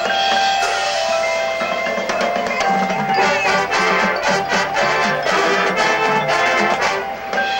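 Marching band playing: held brass chords, with percussion and mallet keyboards such as marimba and xylophone coming in with quick repeated strikes about three seconds in.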